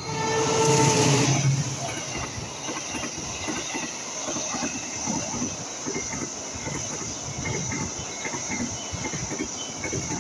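Diesel locomotive of a passenger train passing close by. It is loudest in the first second and a half as the locomotive goes by. Then the coaches roll past with a steady rumble and a stream of wheel clicks over the rail joints.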